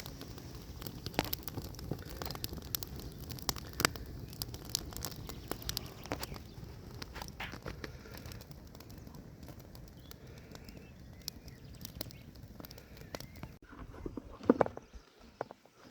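Wood fire of dry branches and myrtle roots crackling with many sharp pops, over a low wind rumble. It cuts off abruptly near the end, followed by a single loud knock.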